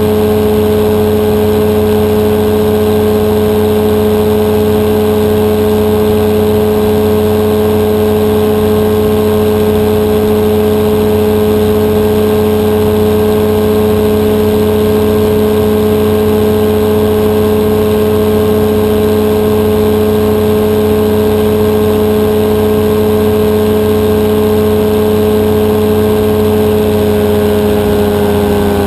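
The Rotax 582 two-stroke engine of a powered parachute, with its propeller, running loud and steady at a constant throttle.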